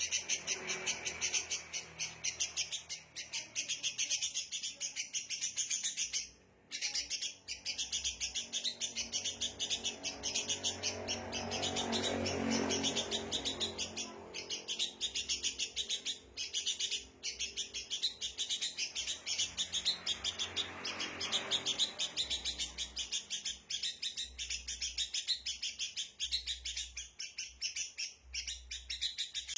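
Sooty-headed bulbuls (kutilang) chattering in fast, continuous, agitated chirps, with a short break about six seconds in. This is the noisy alarm-like chatter used as a lure to draw wild birds in.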